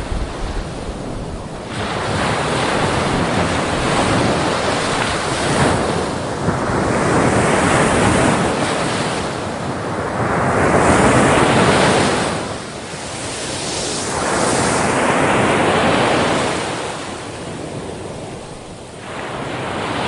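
Rough sea: waves surging and crashing with wind blowing across the microphone, swelling and easing in long surges every few seconds.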